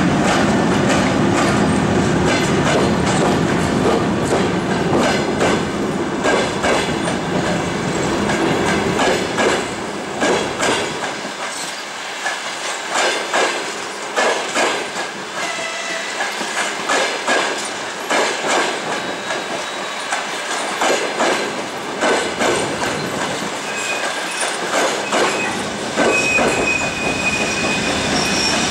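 Passenger train passing close by behind an EP1M electric locomotive. The locomotive's low rumble drops away after about ten seconds, then the coaches roll past with wheels clacking over rail joints, and a thin wheel squeal comes in near the end.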